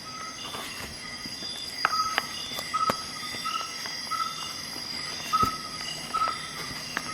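A few sharp metallic clicks, typical of Swiss Army knife tools snapping open or shut, over a steady series of short chirps repeating about every half second.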